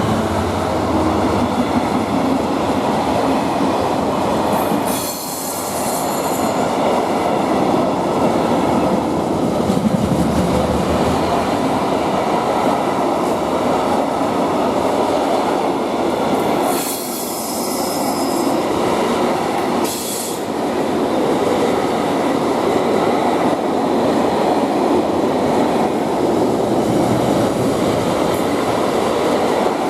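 A Class 66-hauled freight train's wagons rolling past steadily, with wheels rumbling and clacking over the rail joints. Brief high-pitched wheel squeals come about five seconds in and twice more around seventeen to twenty seconds in.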